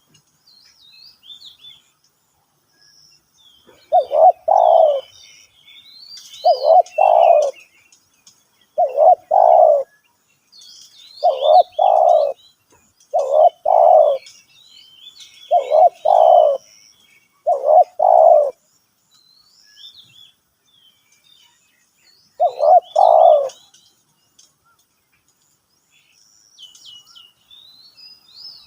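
Spotted dove cooing: a two-part phrase repeated eight times, every two to two and a half seconds, with one longer pause before the last phrase. Small birds chirp faintly and high-pitched throughout.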